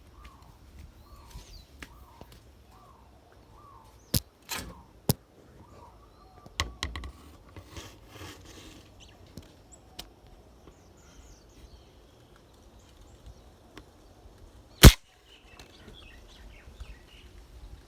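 A bird calling about six times in quick succession, then a few sharp clicks and knocks. Near the end comes a single sharp crack, by far the loudest sound, which fits a shot from a Crosman Tyro break-barrel air rifle. Faint high chirps follow the crack.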